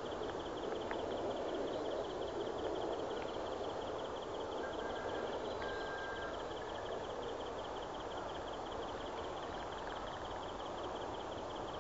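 Outdoor ambience led by an insect's steady, rapidly pulsing high trill, over a low even background rush. A faint short whistle-like note sounds about halfway through.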